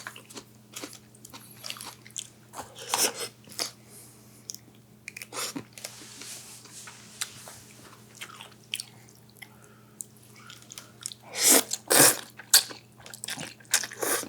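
Close-miked chewing and crunching of raw onion dipped in black bean sauce: irregular crunches with short pauses, the loudest bunched together about eleven to twelve seconds in. A faint steady hum runs underneath.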